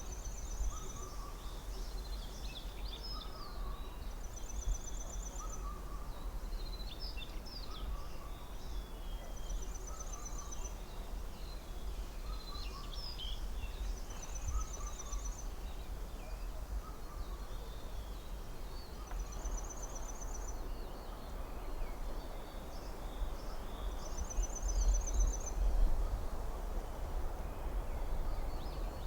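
Forest birds singing: one repeats a short, high, rapid trill every couple of seconds, another gives a short lower note over and over about every second and a half, with scattered chirps between. A low wind rumble runs underneath and swells near the end.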